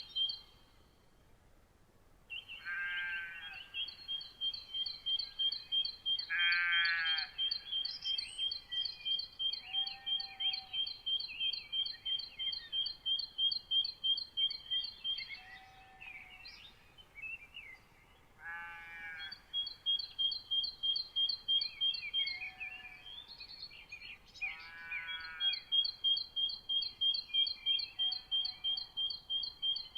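Birds singing: one gives long runs of a rapid, evenly spaced high note repeated several times a second, and another gives a short, lower, rasping call about every three to four seconds. The song pauses briefly just after the start and again about halfway through.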